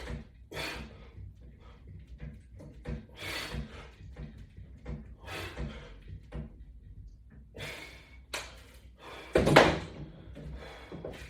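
Irregular knocks and clunks from exercise equipment being handled and shifted, with one loud thump about nine and a half seconds in.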